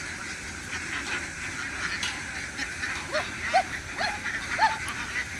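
A large flock of farmed ducks quacking: a dense, steady chatter, with several louder single quacks in the second half.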